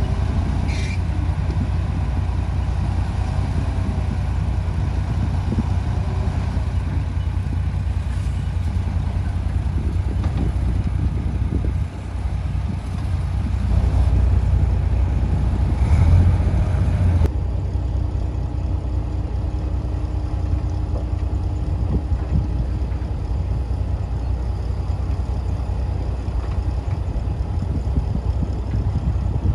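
Diesel engine of heavy earthmoving machinery running with a steady low rumble. It grows louder for a few seconds in the middle, then the sound changes abruptly about two-thirds of the way through.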